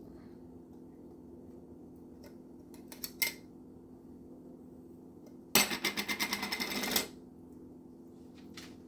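Metal spoon scraping and tapping food out of a container. A couple of clicks come about three seconds in, then a rapid run of about ten taps a second lasting over a second, over a steady low hum.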